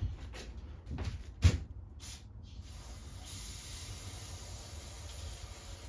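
Aerosol carb cleaner spraying into a cleaned carburetor jet: a steady hiss lasting about three seconds, starting about halfway through. Before it come a few sharp knocks of parts being handled, the loudest about a second and a half in.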